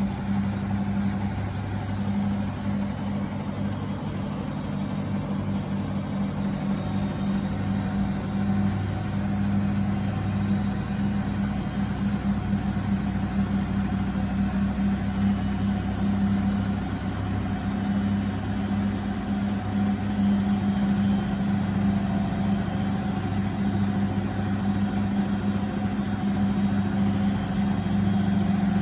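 Beko washing machine in its final spin, the drum turning fast with a steady hum and a thin high-pitched motor whine that rises slowly in pitch.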